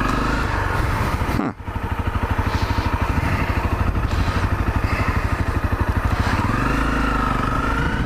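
Honda CRF250L's single-cylinder engine running under the rider. It drops out briefly about one and a half seconds in, then runs at low revs as an even, rapid pulsing, and smooths out and rises again near the end.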